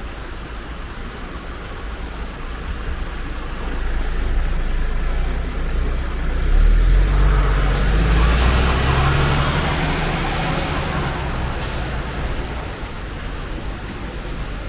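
A heavy road vehicle passes on a wet road. Its engine rumble and tyre hiss build to a peak about seven seconds in, then fade, over the steady hiss of rain.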